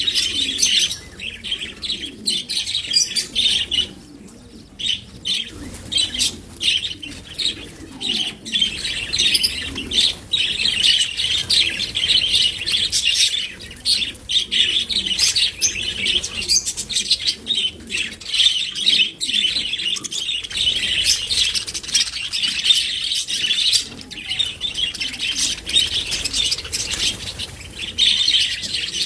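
Budgerigars chattering, a continuous high-pitched twittering and chirping with brief gaps.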